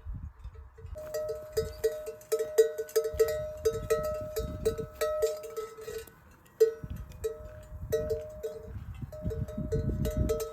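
Bells hung on grazing livestock clanking irregularly as the animals move, at least two bells of different pitch, with a short lull about six seconds in.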